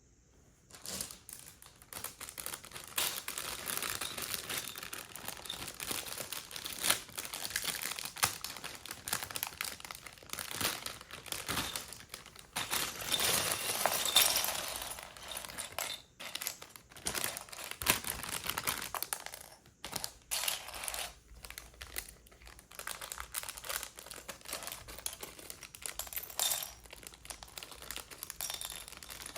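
Plastic bag crinkling and small plastic Lego pieces clicking and rattling as they are handled, starting about a second in and busiest around the middle.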